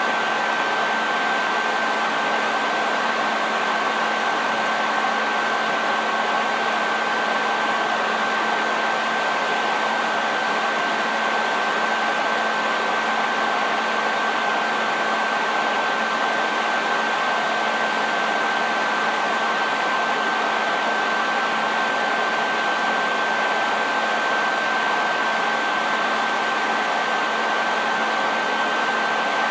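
Hair dryer running steadily: an even rush of blown air with a steady high motor whine and a low hum.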